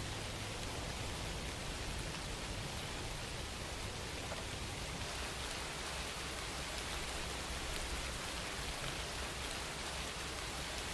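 Steady rain falling, a constant even hiss of rain on surfaces with no thunder or breaks.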